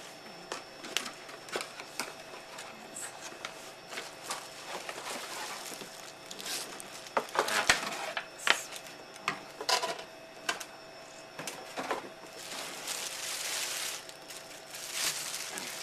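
Cardboard box being opened and its packaging handled: scattered clicks, knocks and scrapes, with a longer rustling scrape about thirteen seconds in.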